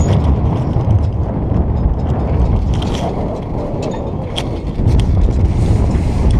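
Wind buffeting the microphone on a moored yacht's deck, a loud, steady rumble, with a few light clicks and knocks from the boat's gear.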